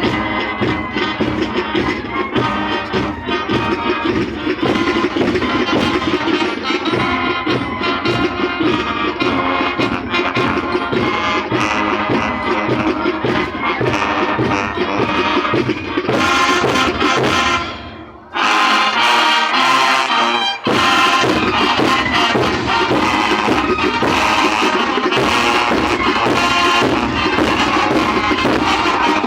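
Student marching band of brass and drums playing a loud, continuous piece, with a brief dropout about two-thirds of the way through before the music resumes.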